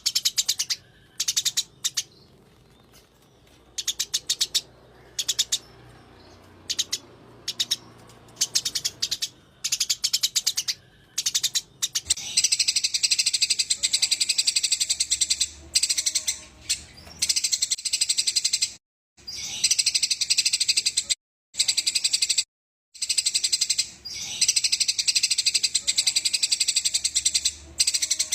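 Eurasian tree sparrows chattering in fast runs of high chirps, the agitated rolling chatter of squabbling sparrows. It comes in short bursts for the first dozen seconds, then runs on almost unbroken, dropping out to silence a few times for a moment.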